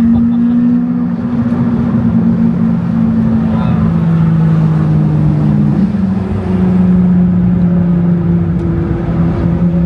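Porsche 992 GT3's naturally aspirated flat-six engine running under steady throttle at a fairly constant pitch, which steps slightly just before halfway through.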